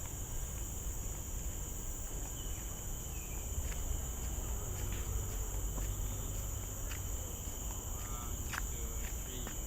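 Steady high-pitched drone of tropical forest insects, with a few short bird chirps over it and a low rumble underneath.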